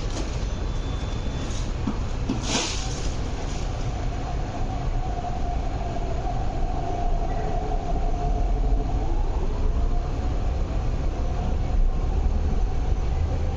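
Interior sound of an MTR R-train (Hyundai Rotem electric multiple unit) pulling away and gathering speed: a steady low running rumble, a brief hiss about two and a half seconds in, then a whine from the traction equipment for several seconds in the middle.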